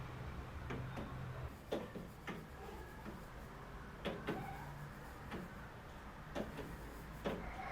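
Irregular light clicks and knocks, about seven over several seconds, with a low hum that stops about a second and a half in.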